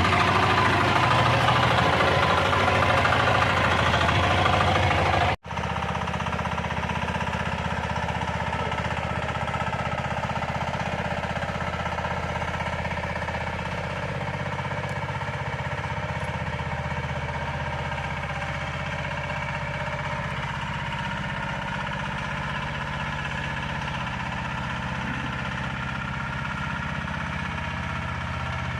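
Mini tractor's engine running steadily. About five seconds in the sound breaks off for an instant and carries on quieter.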